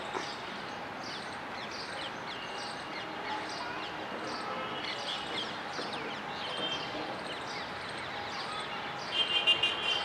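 Birds chirping: many short, falling chirps a few times a second over a steady background hiss, with a louder run of calls about nine seconds in.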